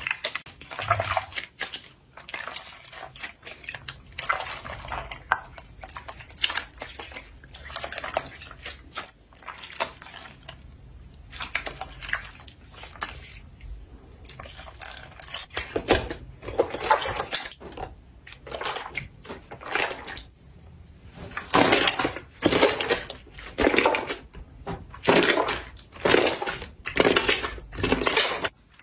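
Slime being handled for ASMR: wet, sticky squelches and crackles, irregular at first, then a run of louder presses about one a second in the last third.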